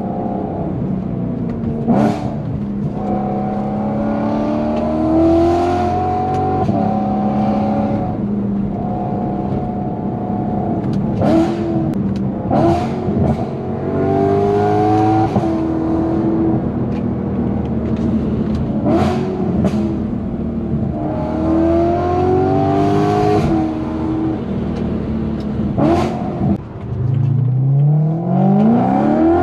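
BMW E90 M3's V8 engine running through a titanium valved aftermarket exhaust on a spirited drive. The revs hold and rise in short pulls, with several sharp cracks along the way. Near the end the sound dips briefly, then the revs climb steeply under hard acceleration.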